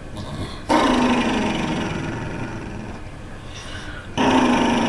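Pet dog growling: a long rough growl that fades out, then a second growl starting about four seconds in.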